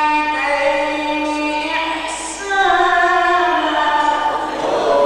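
A man reciting the Quran in the melodic tajweed style, holding long, ornamented notes in two phrases with a short break about halfway.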